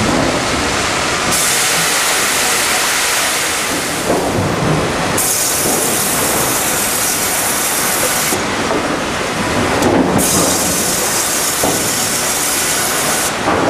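Sawmill line machinery running: a loud, continuous rush of mechanical noise, with a high hiss that cuts in and out in spells of a few seconds.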